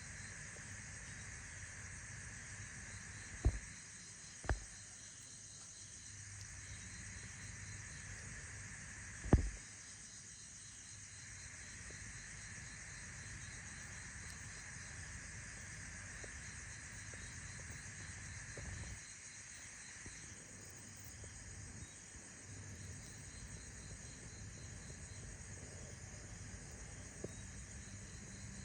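Faint, steady chirping of insects such as crickets over a low hiss. Three short dull thumps stand out, two close together a few seconds in and a louder one near the ten-second mark.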